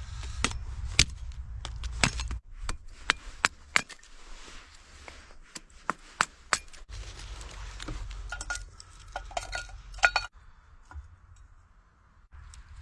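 Irregular sharp knocks, snaps and clinks of firewood sticks being handled and fed into a small wood-burning stove while the fire is being lit. The sounds thin out near the end.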